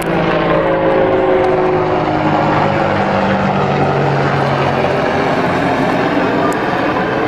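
Army helicopter flying overhead: a loud, steady rotor and engine drone whose pitch drops slightly over the first few seconds.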